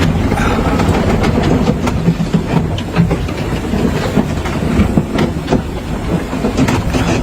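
Small sailing yacht rolling in a rough, confused sea: a loud, steady rush of water and hull noise with irregular knocks and rattles throughout.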